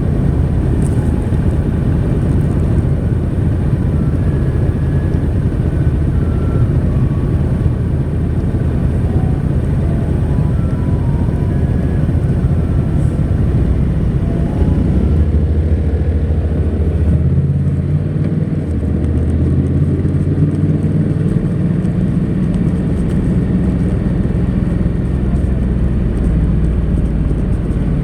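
Honda NC700X's parallel-twin engine running through its stock exhaust while riding. Its low note holds steady, then shifts up and down in pitch several times in the second half as the road speed changes.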